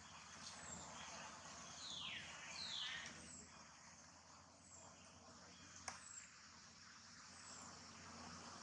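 Quiet forest ambience with faint bird calls: two falling whistles about two seconds in and a soft high chirp repeating roughly once a second. A single sharp click comes near six seconds.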